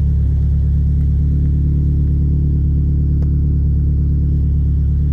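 Turbocharged 2.5-litre flat-four of a built 2017 Subaru WRX STI (new AIG 550 long block, aftermarket header, downpipe and cat-back exhaust) idling steadily with a deep, even rumble. There is a faint click about three seconds in.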